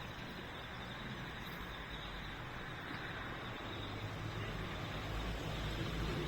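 A vehicle engine running with a low hum that grows gradually louder over the second half, over a steady hiss of open-air noise.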